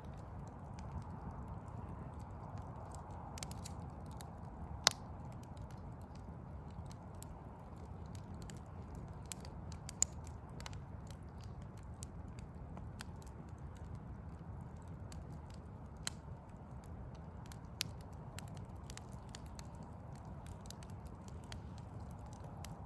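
Backyard wood fire crackling, with scattered small ticks and pops and two sharp pops about five and ten seconds in. A steady low city rumble runs underneath.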